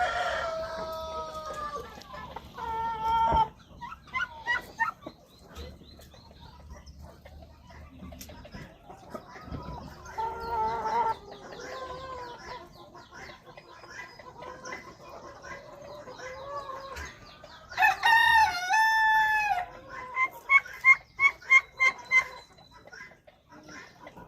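Domestic fowl calling: a rooster crows at the start and again, loudest, about 18 seconds in. Scattered short calls in between, and a quick run of clucks, about five a second, follow the second crow.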